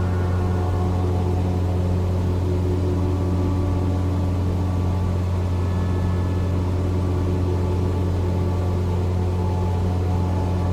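Cessna 172's single piston engine and propeller droning steadily at cruise, heard from inside the cockpit.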